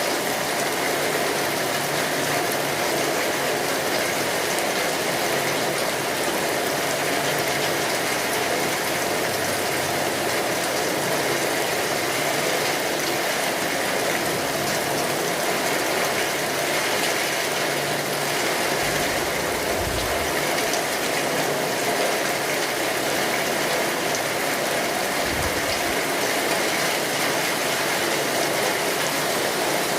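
Steady heavy rain drumming on a tin roof, mixed with the clicks and pops of a crackling wood fire. Two brief low rumbles come in the second half.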